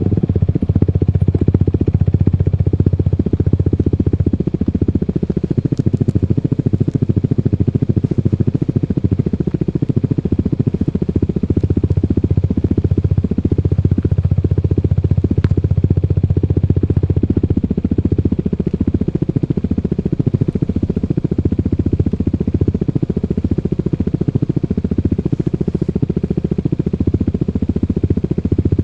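Italjet Dragster 125 scooter engine running steadily at low revs through an Akrapovic racing slip-on exhaust with the baffle removed, giving a dense, low exhaust beat.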